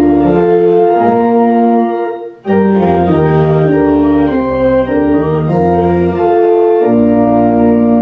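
Organ playing slow, sustained chords that change every half-second or so, with a short break between phrases about two and a half seconds in.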